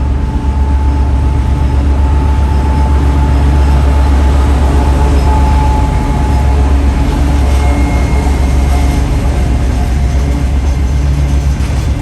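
Train running with a steady, loud, heavy rumble and a few faint steady tones above it.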